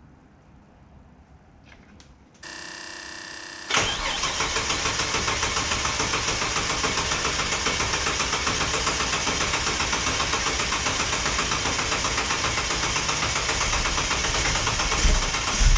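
Ford Falcon XR6 Turbo's turbocharged 4.0-litre inline-six cold-started on E85: the starter cranks for about a second, then the engine catches with a sharp burst and settles into a steady fast idle. A couple of louder bumps come near the end.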